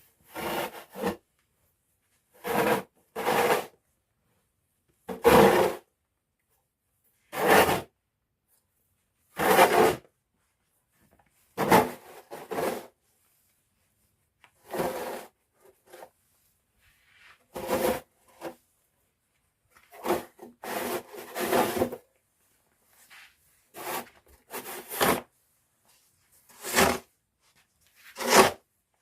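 A homemade snow shovel made from a pitchfork scraping and pushing snow, in separate strokes about every two seconds.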